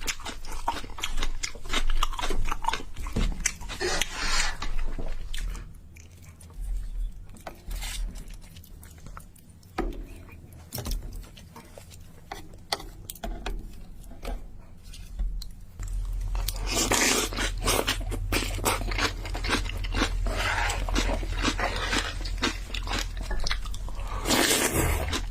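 Close-miked mukbang eating sounds of spicy noodles with rice: chewing and many small wet mouth clicks. The clicks are quieter in the middle, and a few longer noisy rushes come in the second half.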